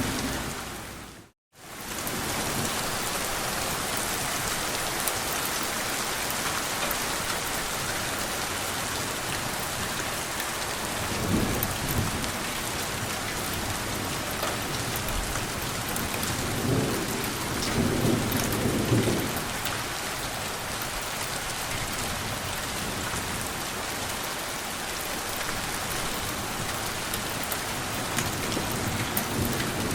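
Steady rain with thunder rumbling low, once around eleven seconds in and again in a longer roll from about sixteen to nineteen seconds. The sound drops out to silence for a moment about a second and a half in.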